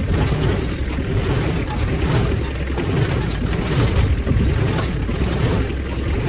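Engine running steadily with a low rumble, most likely the tractor that drives the hay baler.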